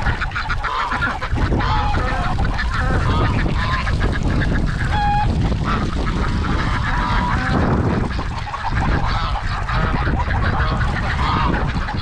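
Flock of domestic geese honking loudly and without pause, mixed with duck calls, in an uproar that the keeper takes for the birds raising an alarm. Wind rumbles on the microphone underneath.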